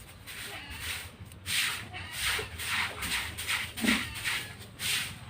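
Repeated scraping strokes, about two a second, typical of work on a goat carcass.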